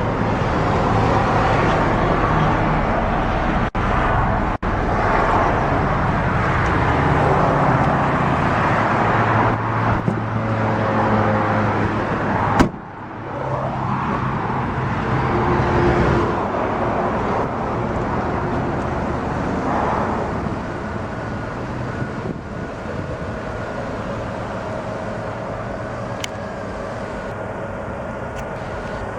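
Chrysler Town & Country's 3.8-litre V6 idling steadily, heard from outside the van. One sharp knock sounds about halfway through.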